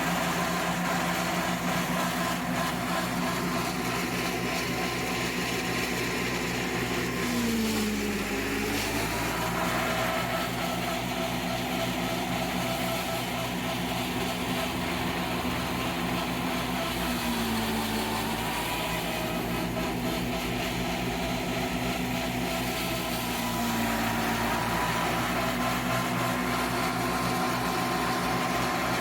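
Fiat 480 tractor's diesel engine running steadily, its note sagging briefly and recovering three times, about a third of the way in, past the middle and again later.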